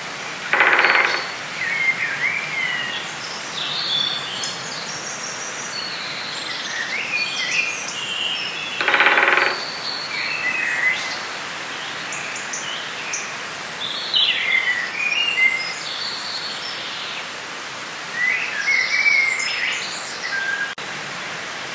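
Forest ambience: many small birds chirping and twittering over a steady background hiss, with a short, harsh, buzzy call twice, about a second in and near the middle.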